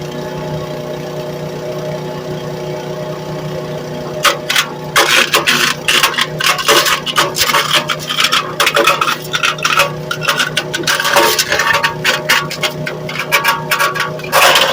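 Small wood chipper running steadily, then from about four seconds in, wood being fed through it, with rapid loud cracking and clattering as it is chipped.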